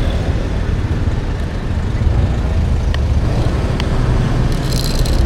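Steady rushing road noise from riding a motor scooter through city traffic, with the scooter's engine and wind on the microphone.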